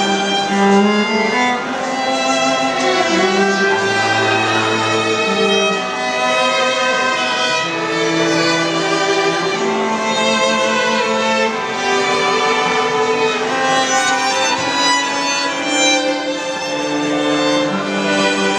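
String quartet playing live: violins, viola and cello bowing sustained melodic lines together, with a low cello note about four seconds in.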